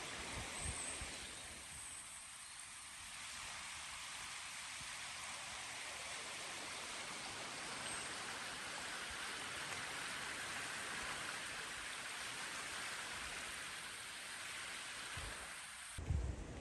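Steady rain falling, an even hiss with no breaks. Near the end a low rumbling starts.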